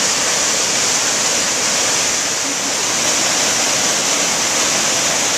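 Loud, steady rush of fast-flowing water, even and unbroken.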